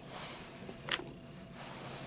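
Soft eating sounds of a man chewing food, with hissy mouth and breath noises and one sharp click about a second in.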